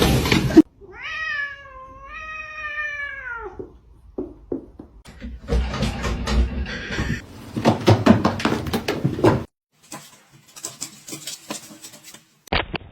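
A cat's long, wavering meow lasting about three seconds, followed by a run of knocks and scuffling clatter.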